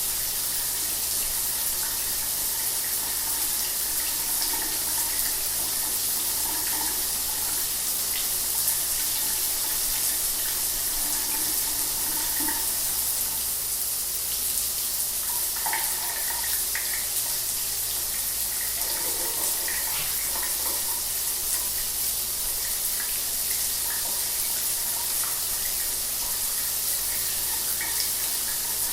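Shower running: a steady, even hiss of falling spray, with faint irregular splashes scattered through it.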